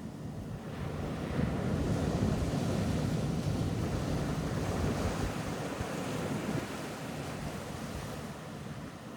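Ocean surf on a beach: a wave's wash that swells about a second in and slowly fades over several seconds.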